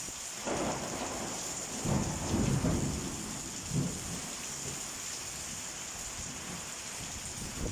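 Thunder rolling over steady rain. The rumble builds about half a second in and is loudest around two to three seconds, with one last short burst near four seconds. It then fades, leaving the hiss of the rain.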